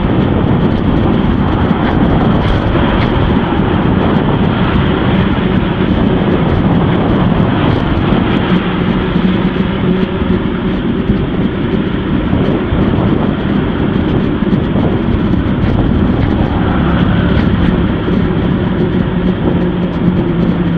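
Steady wind and road rumble from riding a bicycle, with a low, steady engine hum from nearby traffic that becomes clearer partway through.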